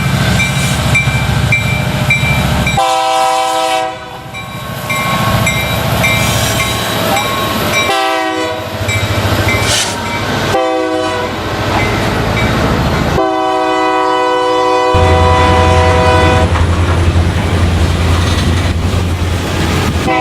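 Diesel locomotive horn sounding the grade-crossing signal: long, long, short, long, over the low rumble of the moving train.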